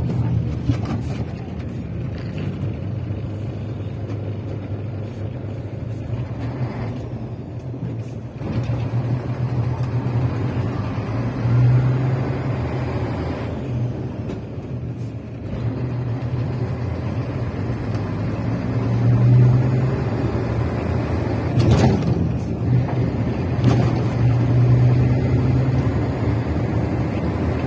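Steady low rumble of a running motor vehicle, swelling and easing a few times.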